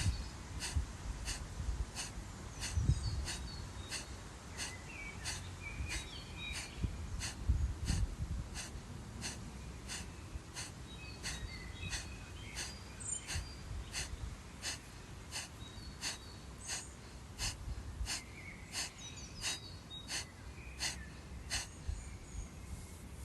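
Rapid, forceful exhalations through the nose in a steady rhythm of about two a second: kapalabhati breathing.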